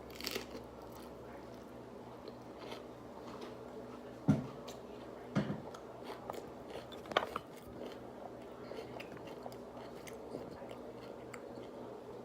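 A person chewing and biting food close to the microphone, with small wet clicks and three louder knocks about four, five and a half, and seven seconds in.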